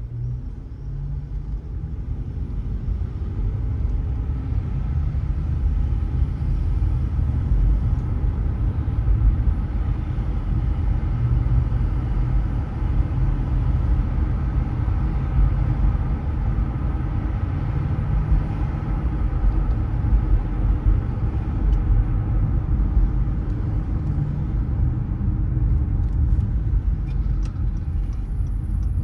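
Car driving on city roads: a steady low rumble of tyres and engine, growing a little louder over the first few seconds.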